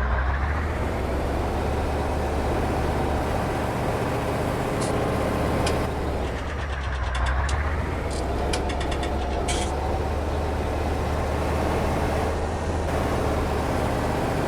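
Heavy truck engine running steadily, with a run of short sharp ticks and rattles between about five and ten seconds in.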